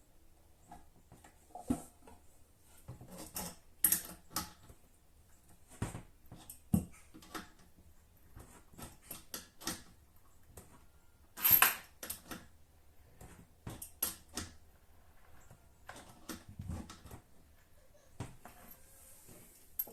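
Irregular clicks, taps and knocks from bidet hose fittings and tools being handled and tightened, with a short scraping rattle about midway.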